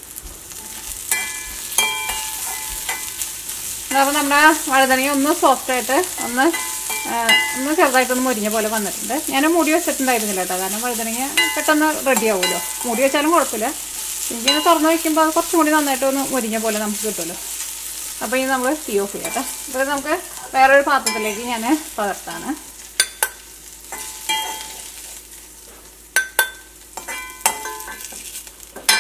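Chopped vegetables sizzling as they fry in an aluminium kadai, stirred and scraped with a steel ladle. A wavering squeal rises and falls through much of the middle, and there are scattered ladle clicks against the pan near the start and end.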